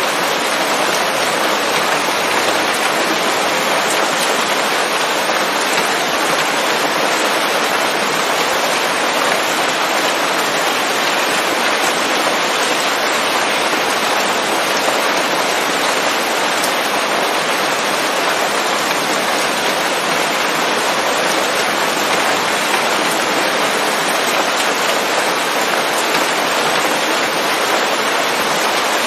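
Steady heavy rain falling on leaves, a dense, even hiss of drops.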